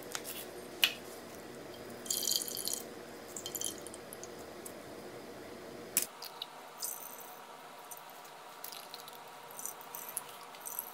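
Water dripping and trickling into a glass bowl as wet paper pulp is squeezed out by hand, in several short irregular spells of splashing.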